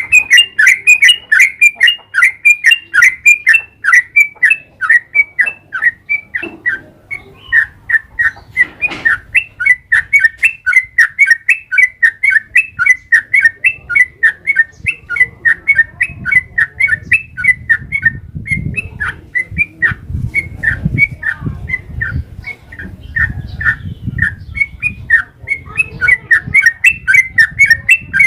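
Yellow-vented bulbul (trucukan) singing a long, unbroken run of rapid, loud chirping notes, about four to five a second, the fast 'ropel' song used as a lure to set other trucukan singing. A faint low rumble sits underneath in the second half.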